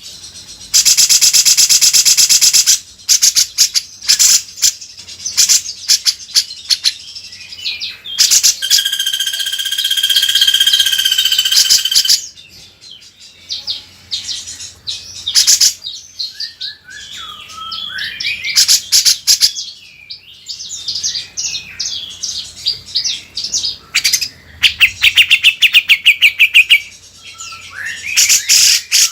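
Cucak jenggot (grey-cheeked bulbul) singing loudly and continuously. Rapid chattering trills alternate with a held whistled passage and warbling phrases that slide up and down: a bird in full song, as used for a masteran training recording.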